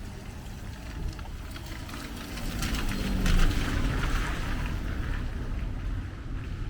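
A vehicle passes on a rain-wet street, its tyres hissing through the water and its engine note falling as it goes by, over a steady low traffic rumble.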